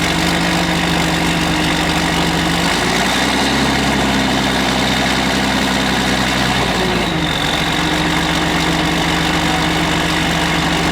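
John Deere 8410 tractor's six-cylinder diesel engine running just after being restarted. Its speed rises a little about three seconds in and eases back down about seven seconds in.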